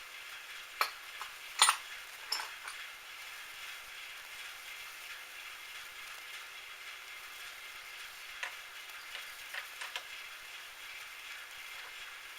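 Steady hiss in a metalworking shop at the lathe, with a few sharp metallic clicks and knocks: three close together near the start, the loudest about one and a half seconds in, and a few lighter ones later.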